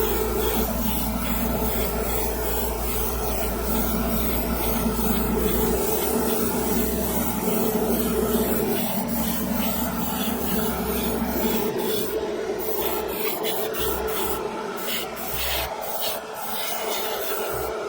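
Air spray gun hissing steadily as it sprays paint, the trigger worked in a rhythm, with a few short breaks in the hiss near the end.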